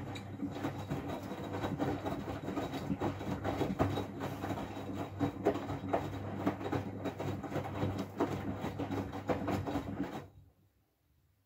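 Miele W433 washing machine drum turning during a high-water rinse, laundry tumbling in the water over a steady motor hum. It stops suddenly about ten seconds in, at the end of a drum turn.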